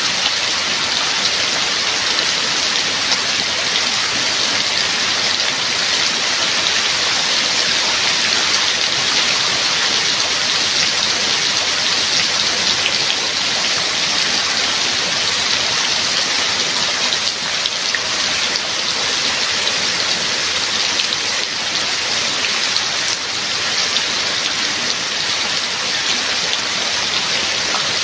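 Heavy, steady rain with many drops pattering on surfaces.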